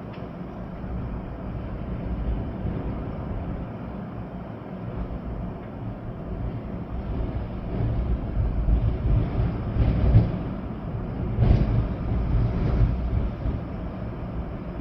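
Storm wind gusting with rain, a deep rushing that swells in the second half, with strong gusts about ten and eleven and a half seconds in.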